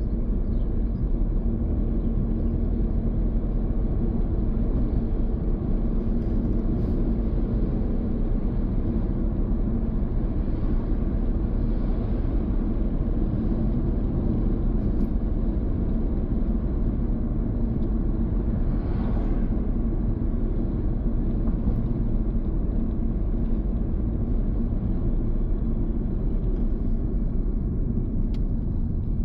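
A car driving along town streets: steady low rumble of engine and tyre noise, with a brief swell of hiss about two-thirds of the way through.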